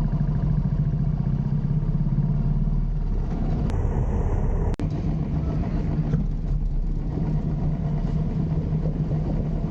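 Royal Enfield motorcycle engine running steadily while riding, with road and wind noise, and a momentary break about five seconds in.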